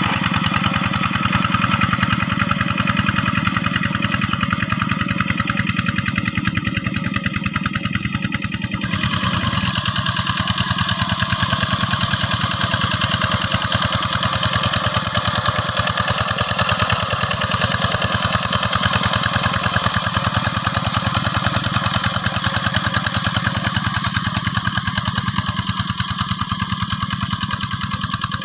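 Two-wheel hand tractor's single-cylinder diesel engine running steadily with a fast, even chugging beat. About nine seconds in, the higher part of the sound changes, then holds steady again.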